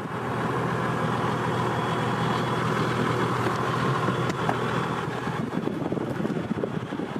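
Climate control blower fan running steadily, with the 4.2-litre 1HD turbo-diesel inline-six idling underneath. The blower noise swells about half a second in.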